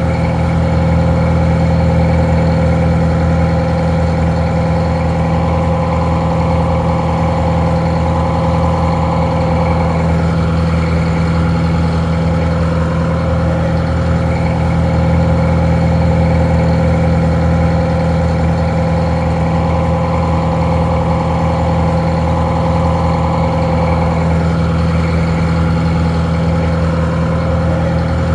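Detroit Diesel 4-71 two-stroke four-cylinder diesel idling steadily, slightly muffled.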